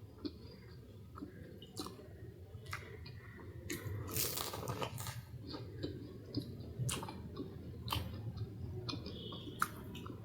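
A person chewing and crunching flaky Nepali puff pastry close to the microphone, with sharp crackles as it breaks up in the mouth and a louder run of crunching about four seconds in.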